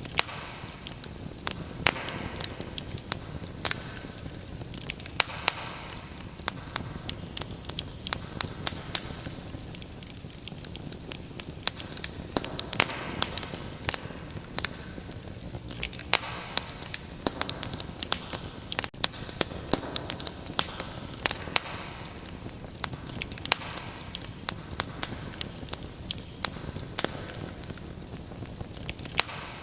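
Fireplace fire crackling: frequent sharp, irregular snaps and pops over a steady low rumble of burning.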